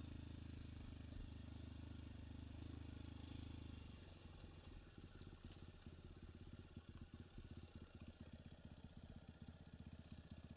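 Faint enduro dirt-bike engine running steadily at low revs, easing after about four seconds into a quieter, slower putter like an idle.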